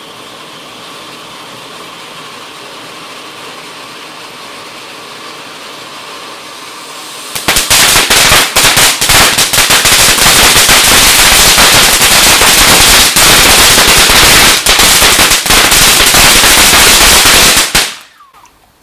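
A firework going off: a steady hiss for about seven seconds, then a loud, rapid, dense crackle of bangs for about ten seconds that cuts off suddenly.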